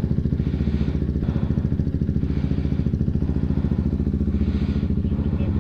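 Honda CB125R's single-cylinder engine, fitted with a Leovince LV10 exhaust, idling steadily with an even, fast pulsing beat.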